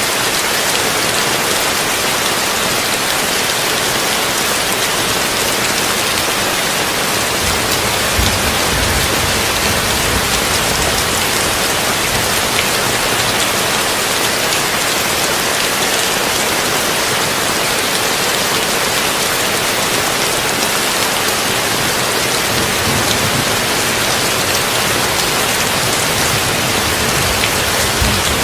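Heavy rain falling steadily on a tin roof, an even dense hiss. A low rumble swells briefly about a third of the way in and again near the end.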